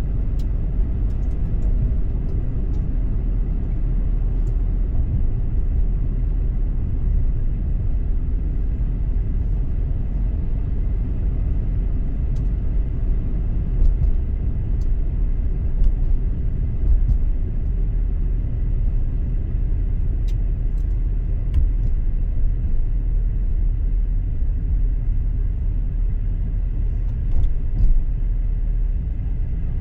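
Car driving on a road, heard from inside: a steady low rumble of road and tyre noise, with a few light clicks and knocks along the way.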